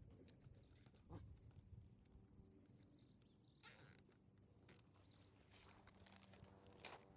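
Near silence with faint handling noises: a few soft clicks and two short scratchy rustles about three and a half and four and a half seconds in.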